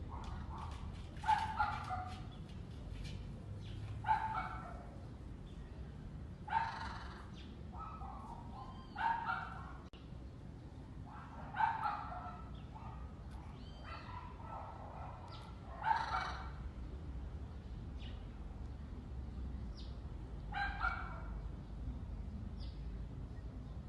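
Short, harsh animal calls, each under half a second, repeated every two to four seconds, about eight in all, over a steady low rumble.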